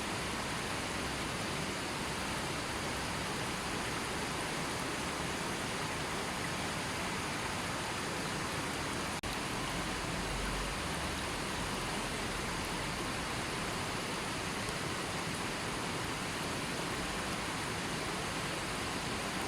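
Steady, even rushing of a gently flowing river, a continuous water hiss with no birds, broken by a momentary dip in level about halfway through.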